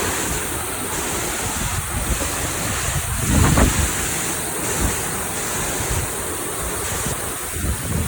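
Steady rushing of a large waterfall, with wind buffeting the microphone in gusts, the strongest about halfway through.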